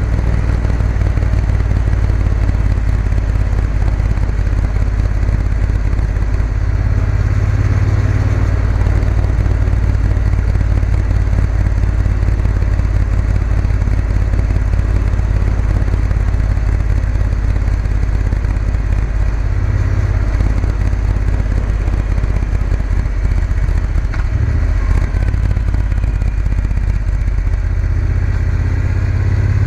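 Triumph Bonneville T120's parallel-twin engine running steadily on the move, under heavy wind rumble on the microphone.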